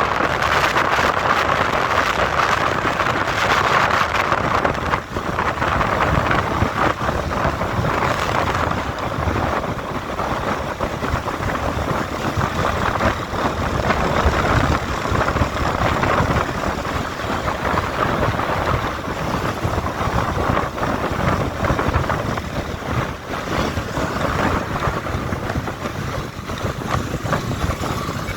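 Steady wind rush and road noise from a moving motorcycle, with wind buffeting the microphone.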